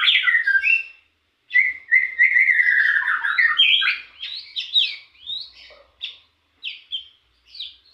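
Young hill prinia (ciblek gunung) singing fast runs of rapid chattering notes, practising the machine-gun-like 'ngebren' song. There is a brief break about a second in, and from about halfway it breaks into shorter, separate phrases.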